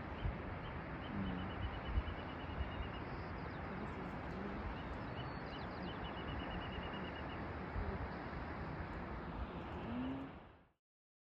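Birds calling over a steady rushing background: repeated short high trills and a few low hooting notes. The ambience fades out near the end.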